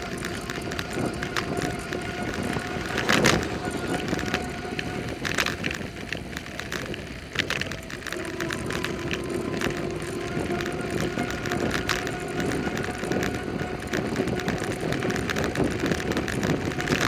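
Bicycle being ridden along a road: steady tyre and wind noise with a steady hum, and rattling knocks from bumps, the loudest about three seconds in and others near five and seven seconds.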